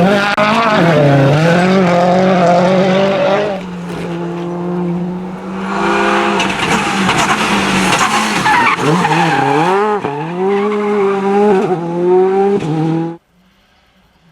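Rally car engine at full throttle, revving up and down through quick gear changes as it passes at speed, with a loud rush of noise in the middle typical of tyres sliding on the stage. The sound cuts off suddenly about a second before the end, leaving a much quieter engine hum.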